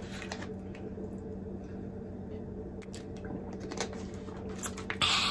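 Chewing a chocolate-covered crunchy wafer bar: scattered soft crunches and mouth clicks, with a brief louder rustle near the end.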